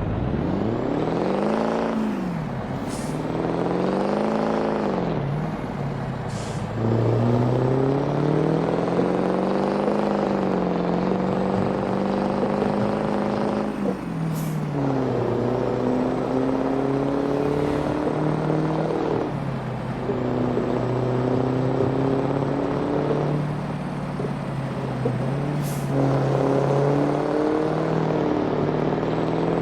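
Scania V8 diesel truck engine on a straight-pipe exhaust, revving and pulling through the gears: the pitch climbs, then drops sharply at each gearshift, about four times. Short hisses of air come with some of the shifts.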